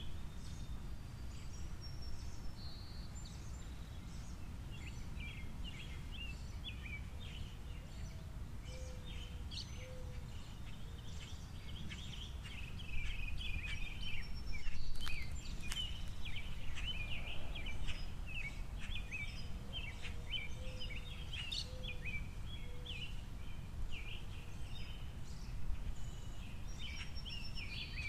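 Small birds at a bird feeder chirping and twittering continuously, busier and louder from about halfway through, with a short series of low, soft notes twice, over a steady low rumble of outdoor background noise.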